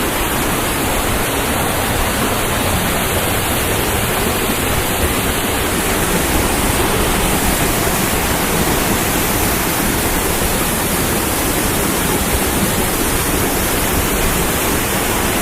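Waterfall close by: falling water giving a loud, steady rushing noise that does not change.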